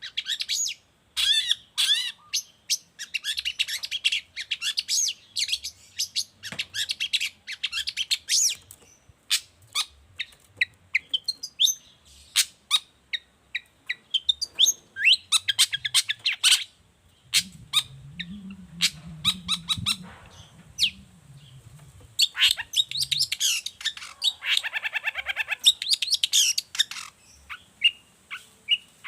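Long-tailed shrike (cendet) singing in full voice: a fast, almost unbroken stream of varied chirps, trills and harsh chatter. A low sound runs underneath for a few seconds in the middle.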